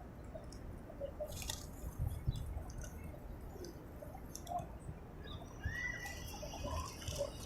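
Birds calling in short, scattered chirps, with one higher call that rises then falls about six seconds in, over small clicks and taps.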